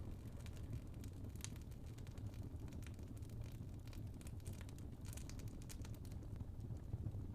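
Wood fire burning in a fireplace: a steady low rumble of flames with frequent small crackles and pops from the burning logs, a brief cluster of crackles about five seconds in.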